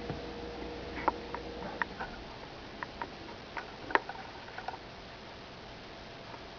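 Squirrel eating: irregular sharp clicks and cracks of its teeth on its food, about a dozen, the loudest about four seconds in.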